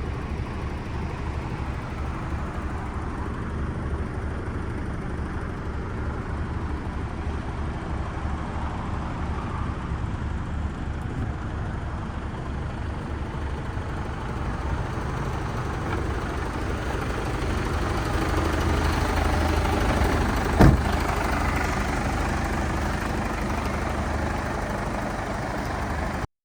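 Mercedes-Benz Actros MP5 tractor unit's 450 hp Euro 6 straight-six diesel running steadily. It grows somewhat louder in the later part, with one sharp knock about twenty seconds in.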